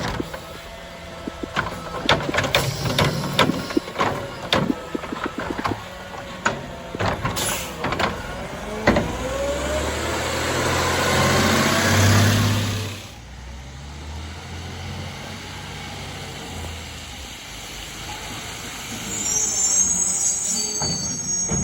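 CNG Autocar garbage truck with a Curotto Can automated arm working a cart: a string of clanks and knocks, then the engine speeds up with a rising pitch for about four seconds as it drives the hydraulics, and cuts off sharply. A brief high squeal comes near the end.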